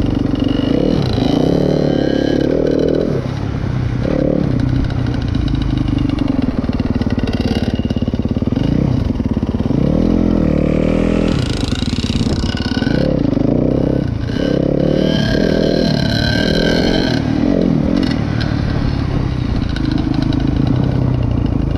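Dirt bike engine being ridden, revving up and falling back again and again, with a long rise in revs about halfway through.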